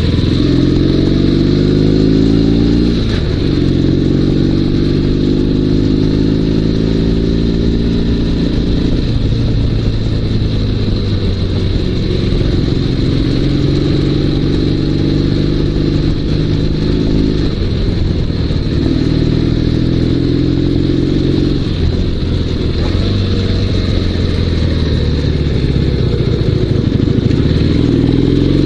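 Dnepr 16 sidecar motorcycle's flat-twin boxer engine running under way, rising in pitch as it accelerates and dropping back at several gear changes.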